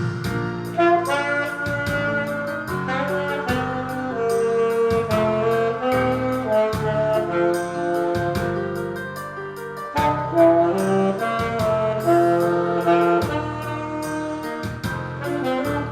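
Yamaha YAS-280 alto saxophone with a Selmer Concept mouthpiece playing a slow ballad melody in held notes, over a karaoke-machine backing track with a steady beat.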